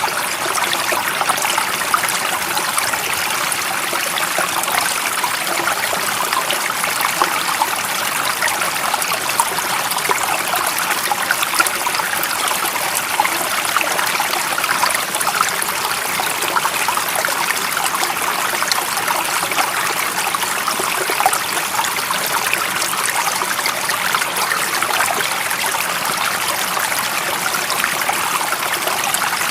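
A stream's running water: a steady, even rushing with a fine trickling texture.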